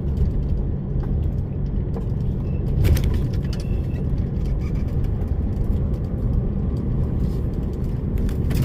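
DAF lorry's diesel engine running with steady low road rumble as the truck drives, with a few short knocks or rattles, one about three seconds in and another near the end.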